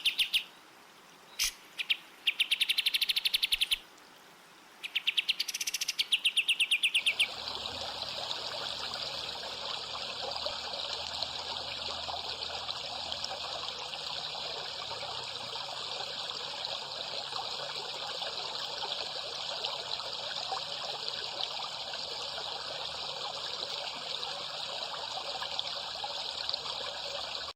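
Songbird trills: very fast runs of repeated high notes in several bursts broken by short pauses. About seven seconds in they stop abruptly, and a steady, dense hiss like running water or a chorus of insects takes over.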